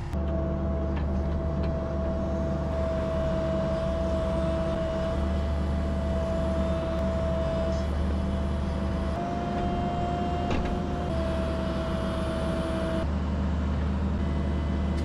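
Hydraulic excavator running with its diesel engine at steady speed, a constant hydraulic whine riding over the low engine drone. The whine steps up in pitch about nine seconds in and drops back about two seconds later as the machine works under load.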